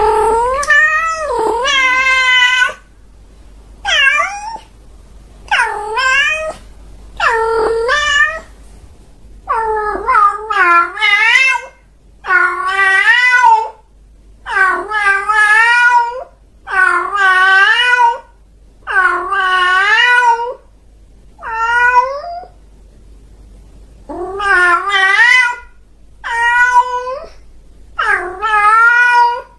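A domestic cat meowing over and over, in long wavering meows about every two seconds, some running together.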